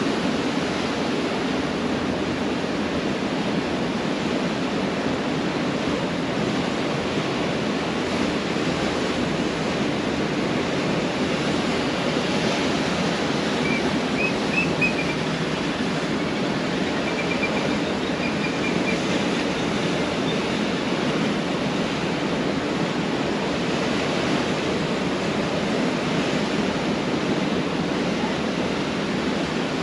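Pacific Ocean surf washing steadily onto the beach as a continuous rushing noise. A few faint, short high chirps sound about halfway through.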